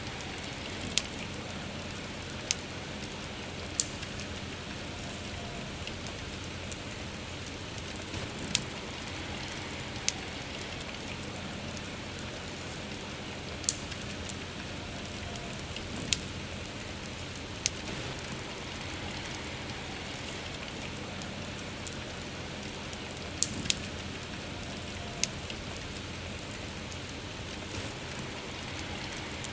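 Steady rain with a wood campfire crackling: sharp pops come every second or two over an even hiss of rain.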